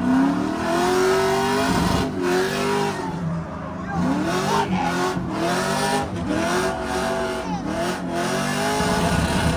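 Drift car's LS3 6.2-litre V8 revving hard, rising in pitch again and again with drops between as the throttle is worked through a drift, with tires squealing.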